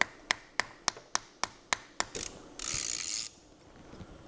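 Even, sharp clicking, about three or four clicks a second, as the Y-Knot suture anchor is driven into the bone with its inserter; the clicking stops about two seconds in and is followed by a short hiss lasting under a second.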